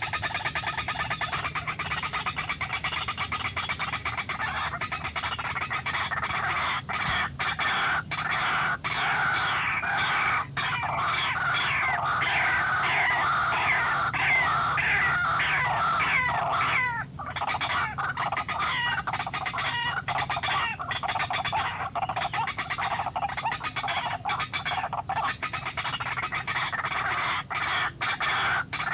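White-breasted waterhen (ruak-ruak) calls: a loud, continuous run of rapidly repeated notes, with a short break about seventeen seconds in.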